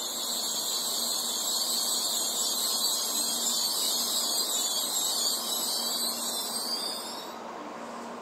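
N700-series Shinkansen train pulling slowly out along the platform, giving off a steady high-pitched hiss that eases off and fades out near the end.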